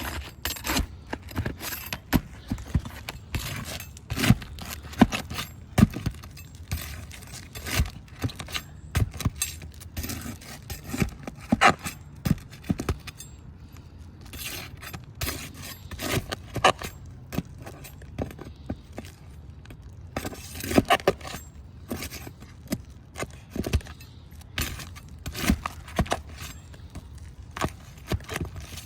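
Irregular clinking, clicking and scraping of small hard objects being handled, with a few sharper knocks among them.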